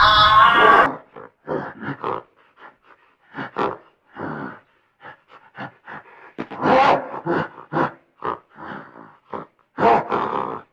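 An animal grunting: a loud call in the first second, then a long run of short, irregular grunts.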